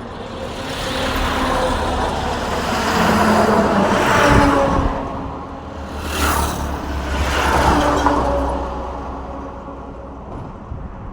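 Road traffic: several motor vehicles passing one after another, engine and tyre noise swelling and fading with each pass.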